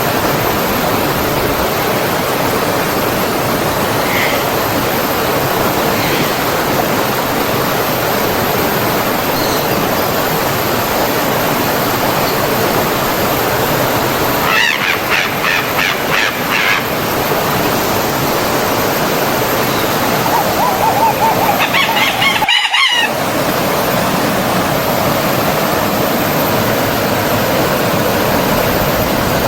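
Forest stream flowing steadily, with a rushing water sound. Birds call over it twice, a few seconds apart, past the middle. Right after the second calls the sound drops out for a split second.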